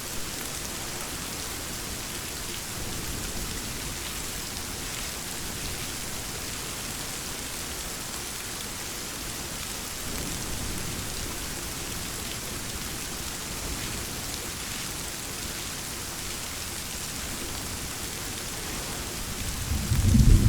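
Steady rainfall. A low rumble of thunder builds in and grows loud near the end.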